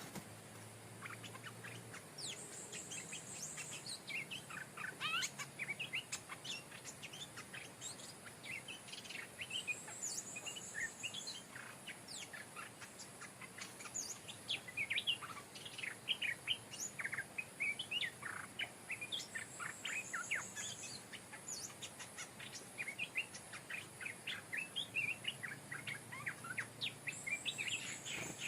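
Stripe-throated bulbuls singing: quick runs of short chirpy, bubbly notes with little pause. A short, high, pulsing buzz comes four times, about every eight or nine seconds, over a faint steady high hiss.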